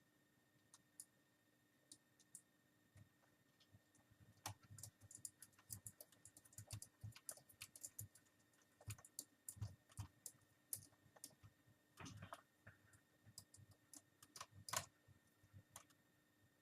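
Faint, irregular small clicks and ticks of a screwdriver working the small screws of a laptop screen assembly and of plastic and metal parts being handled, with a slightly louder cluster of clicks about twelve seconds in and again near the end.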